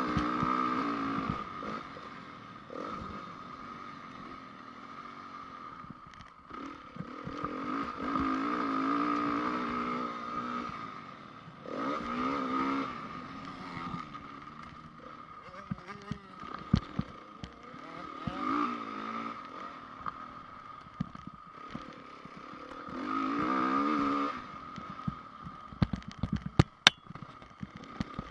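Single-cylinder four-stroke engine of a 2010 Honda CRF450 motocross bike being ridden hard on a dirt track. It revs up and drops back off about five times, and sharp knocks come near the end.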